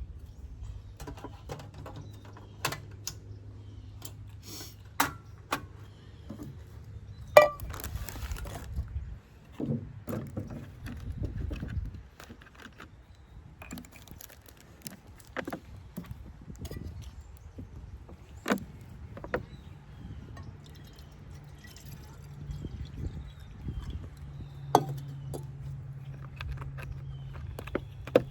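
Scattered metallic clinks and knocks of camp cooking gear being handled while corn is set up to heat, a few of them sharp, over a low steady hum.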